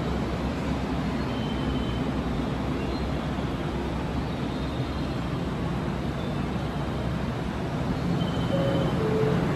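Steady low rumble of a roofed railway station platform. About eight seconds in it grows louder as a JR West 227 series electric train pulls in alongside, with a couple of faint short tones.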